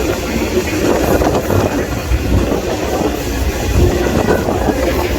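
Moving freight train heard from on board a car: a steady loud rumble and rattle of the wheels and cars on the rails.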